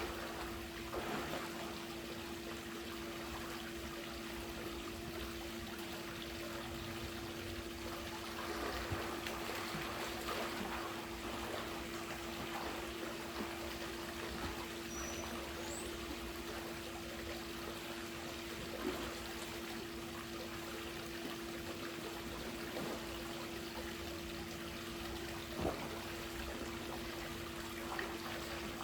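Swimming-pool water trickling and lapping, with a few small splashes and a steady low hum throughout.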